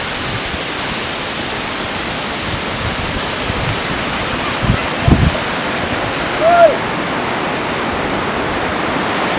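Amitabh Falls, a high waterfall, rushing steadily with an even noise of falling water. A couple of brief low thumps come about five seconds in.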